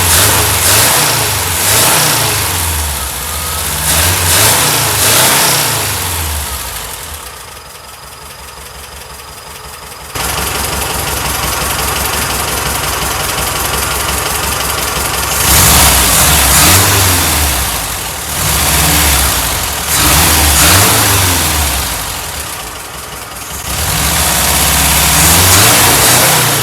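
Air-cooled Type 4 VW flat-four engine running and being revved up and down several times, settling back between blips. There is a quieter stretch from about seven to ten seconds in.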